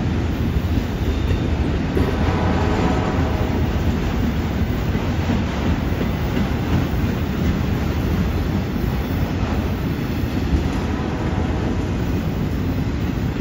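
Steady rumble and clatter of a freight train's autorack cars rolling past, wheels on the rails.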